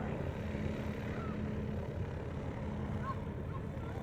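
Steady low drone of a light aircraft's piston engine running at an even pitch, with a few faint short chirps over it.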